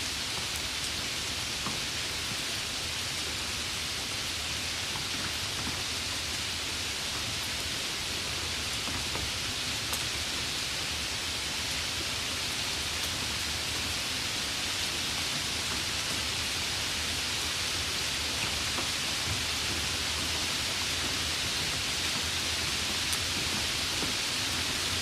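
Steady rainfall, an even hiss with a low rumble underneath and a few faint drop ticks.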